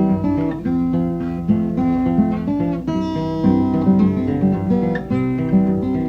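Music: an acoustic guitar picking a folk-blues tune, with no singing.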